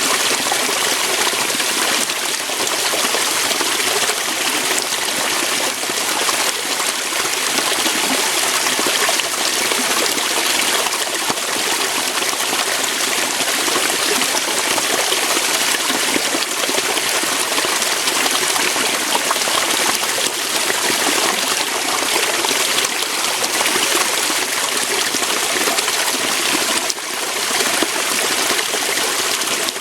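Waterfall: water flowing and splashing over rocks in a steady rush, with a brief dip in level near the end.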